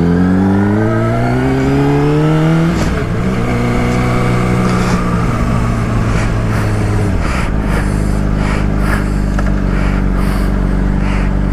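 Motorcycle engine pulling hard under acceleration, its pitch climbing and then dropping at a gear shift about three seconds in. It drops again near seven seconds and holds a steady pitch, with wind rushing over the rider-worn mic.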